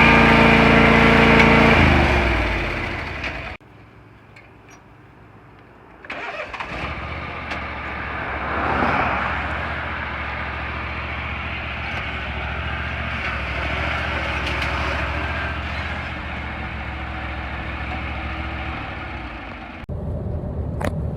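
Ride-on lawn mower engine running at a steady speed, its pitch falling as it winds down about two seconds in. After a short quieter gap the engine runs steadily again.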